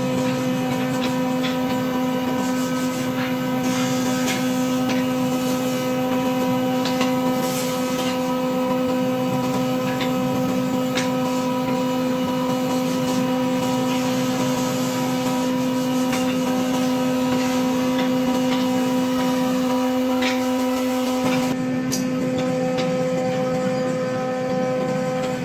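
Electric power tool motor running at a steady speed, with a few light ticks and clicks from the work.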